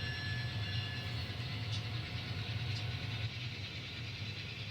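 N scale model diesel locomotive running along the track with its train: a steady low engine-like drone with hiss over it, and a faint high whine that stops about a second in.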